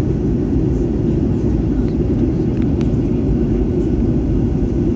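Steady cabin noise of an airliner in flight, a dense low rumble of engines and airflow, with the aircraft descending toward landing.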